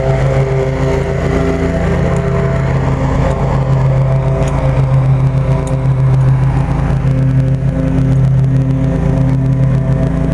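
Central air-conditioner condensing unit running: a steady, loud hum from the compressor and condenser fan, with a constant low drone and even overtones.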